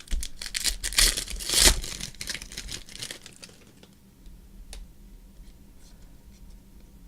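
Trading card pack wrapper being torn open and crinkled, loudest a little after a second in, then dying down to a few faint ticks of cards being handled.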